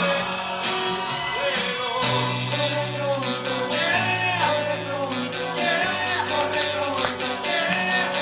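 Pop-rock song: a voice singing a melody over guitar, with bass notes changing about every two seconds.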